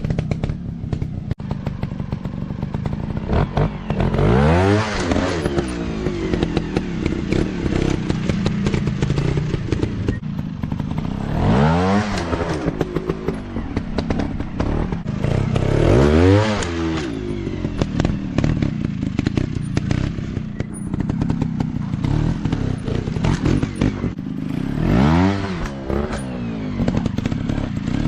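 Dirt bike engines running, revved hard four times. Each rev rises then falls in pitch, with short knocks and clatter throughout.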